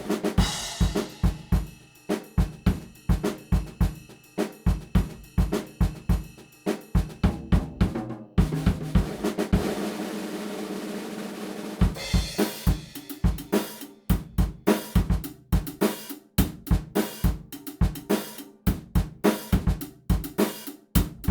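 Background music led by a drum kit playing a steady beat of kick, snare and hi-hat. About eight seconds in, the hits give way to a few seconds of sustained wash, then the beat returns.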